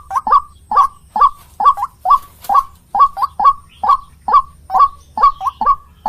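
White-breasted waterhen (ruak-ruak) calling over and over: short, loud notes about two a second, some coming in quick pairs. It is a recording played as a bird-trapping lure call.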